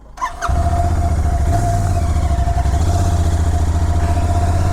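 A vehicle on the move at a steady speed: a loud, steady low rumble with a constant whine over it, starting suddenly about half a second in.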